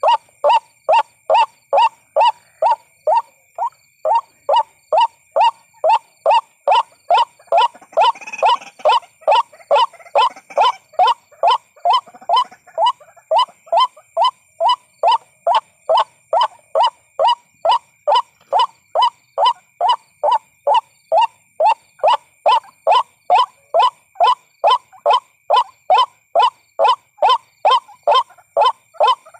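White-breasted waterhen call played as a trapping lure: one short note repeated steadily, about two and a half times a second, over a thin steady high tone.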